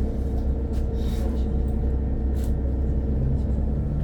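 Cabin of a NefAZ-5299-40-57 CNG city bus: steady low engine and running rumble, with a hum that steps up in pitch about three seconds in and a couple of brief soft hisses.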